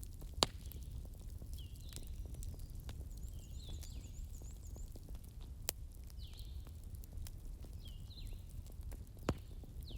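Bonfire burning with a steady low rumble of flames, and sharp crackling pops about half a second in, near six seconds and near nine seconds. Faint, high, falling chirps repeat in the background.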